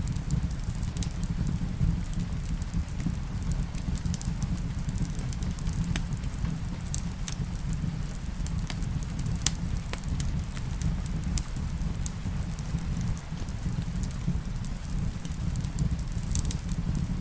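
Wood fire crackling in a fireplace: a steady low rumble with scattered sharp pops, the sharpest about halfway through, over a light hiss of rain.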